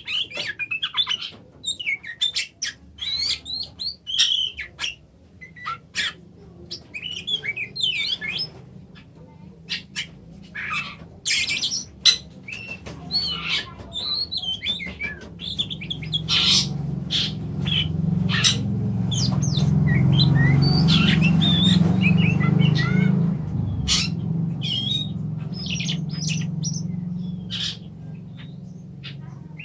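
Oriental magpie-robin (kacer) calling and singing in quick, varied bursts of short chirps, whistles and harsh squawky notes. A low rumble builds up partway through, is loudest in the middle, then eases off under the bird.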